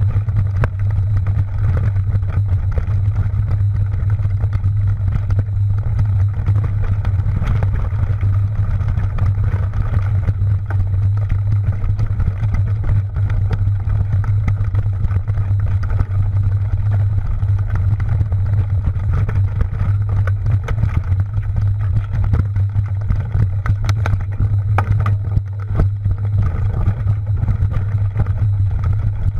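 Mountain bike ridden over rough ground: a steady low rumble of wind and rolling on the camera microphone, with frequent small clicks and rattles from the bike.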